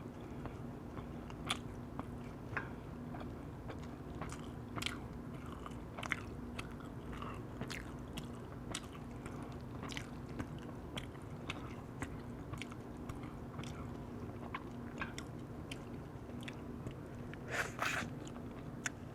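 Close-miked chewing and biting of roast chicken and sticky rice stuffing: irregular wet mouth clicks and smacks, a few a second, with a louder cluster near the end. A steady low hum runs underneath.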